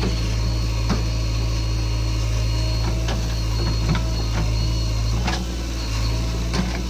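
Diesel engine of heavy earthmoving machinery running steadily, with a few sharp metallic knocks scattered through.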